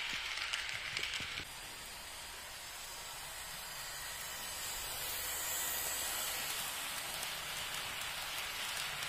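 H0-scale model freight wagons rolling on track: a steady hiss with fast fine ticking for about the first second and a half, then cutting to a smoother hiss that swells a little in the middle.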